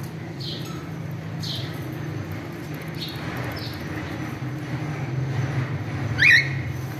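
Cockatiels chirping: a few short falling chirps, then one loud rising call about six seconds in, over a steady low rumble.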